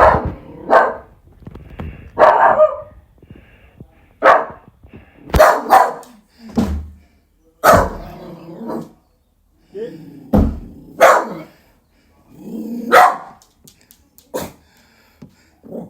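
A dog barking about a dozen times, loud single barks and quick pairs at uneven gaps, with a couple of low thumps among them.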